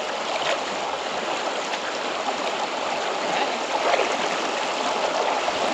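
River water rushing and babbling over rocks in a strong current, a steady splashing flow with small bubbling splashes.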